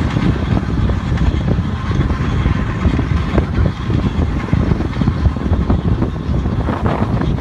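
A car driving, recorded by a dashcam: a steady rumble of engine, tyres and wind, with many small knocks from the road surface.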